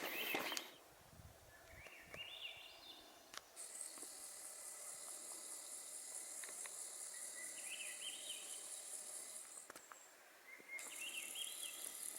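A high, steady insect buzz that lasts about six seconds and comes back near the end, and a songbird singing a short phrase of rising notes three times.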